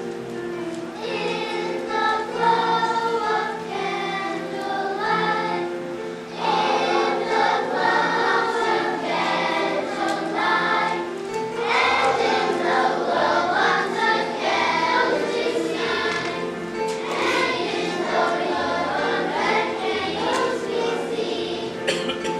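Children's choir singing a three-part round, several voice parts overlapping.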